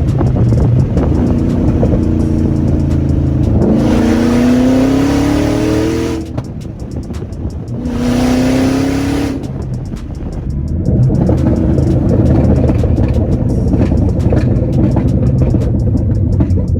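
Shelby GT500's supercharged V8 running loud through gutted catalytic converters, idling steadily. It is revved twice, about four and eight seconds in, each rev rising in pitch and cutting off sharply before dropping back to idle.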